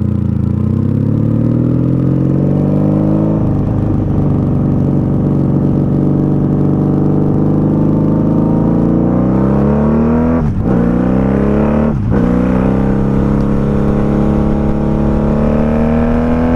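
Honda Magna VF750C's V4 engine pulling under way, its pitch rising and easing with road speed, with two quick upshifts about ten and twelve seconds in where the pitch briefly drops and climbs again.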